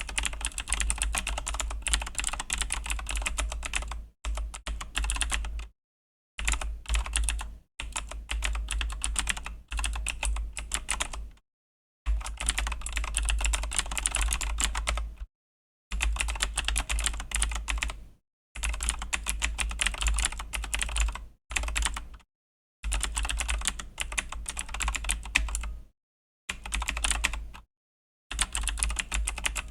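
Fast typing on a Razer BlackWidow V3 mechanical keyboard with clicky Razer Green switches, dense runs of keystroke clicks in bursts of a few seconds broken by short pauses.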